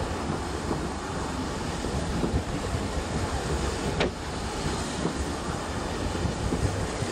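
Narrow-gauge passenger coaches rolling past, a steady rumble of wheels on rail with irregular small knocks and clicks, and one sharp click about four seconds in.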